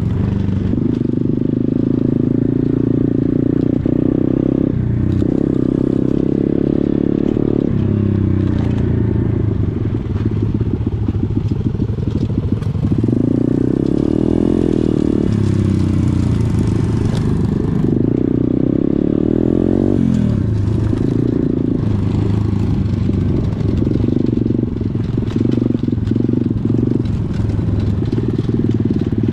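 Pit bike engine running continuously, its pitch rising and falling as the throttle is opened and closed while riding.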